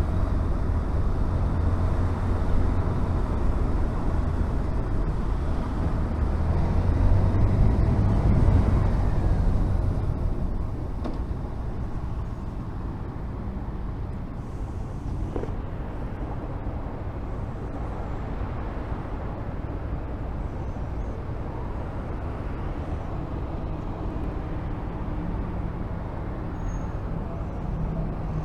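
Honda VFR1200F's V4 engine running under way with road noise. About ten seconds in the engine note drops away as the bike eases off, then runs low and steady.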